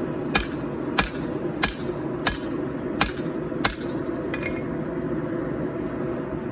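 Hand hammer striking hot 4140 steel on an anvil: six evenly paced blows about two thirds of a second apart, then one lighter tap, and the hammering stops a little past four seconds in. A steady low rumble runs underneath.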